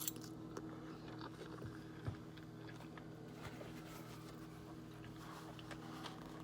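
Faint chewing of a salad with a few small clicks of eating, over a steady electrical hum.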